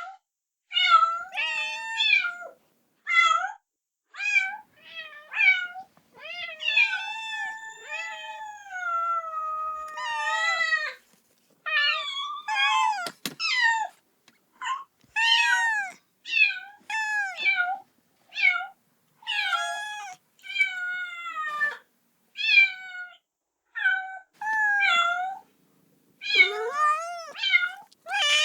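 Kitten meowing over and over, calling for its mother: short, high-pitched meows about once a second. A few longer, drawn-out meows that fall in pitch come about a third of the way in. There is a single sharp click about halfway through.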